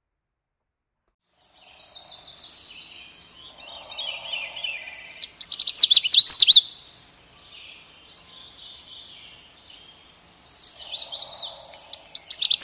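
Birds chirping and singing in quick trills, starting about a second in, with the loudest bursts of rapid chirps about halfway through and again at the end.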